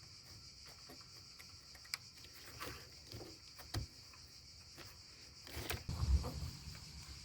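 Faint scattered clicks and light taps of hand tools and parts being handled during car work, with a heavier rustling thump about six seconds in.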